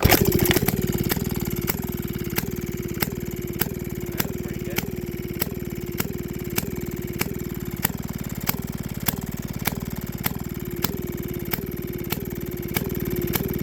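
Early Maytag Model 92 single-cylinder two-stroke engine starting: it catches right at the beginning, loudest for the first second or so, then settles into steady running with a sharp click repeating about every 0.6 seconds.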